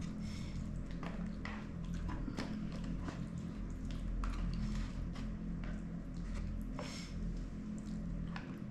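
Eating close to the microphone: chewing and soft wet squishes and clicks as seafood is picked apart and eaten, over a steady low hum.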